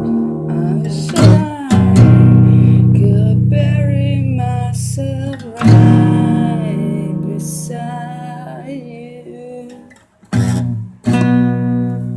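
Guitar strumming single chords and letting each one ring out and fade, with a short pause just before the last two strums.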